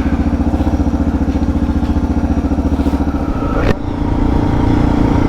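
Suzuki DR650 single-cylinder engine running with an even, rapid pulsing beat. About three and a half seconds in there is a sharp click, and the engine note turns steadier and higher.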